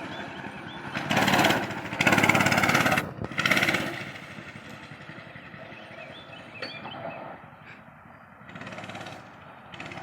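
Small single-cylinder mini bike engine revving in three short bursts over the first four seconds, then running more quietly.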